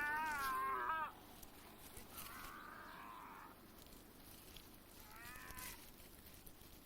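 A goat bleats in a long, wavering call that breaks off about a second in. A fainter, shorter bleat follows about five seconds in, over a quiet outdoor background.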